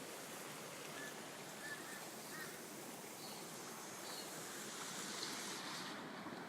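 Steady rushing noise, like running water, with a few faint short high chirps in the first half.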